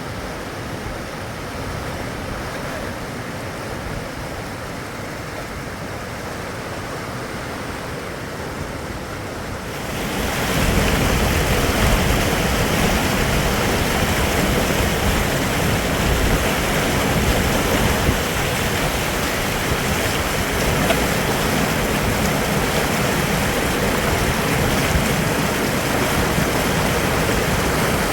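Fast river water rushing over rocks, a steady noise that becomes louder and brighter about ten seconds in.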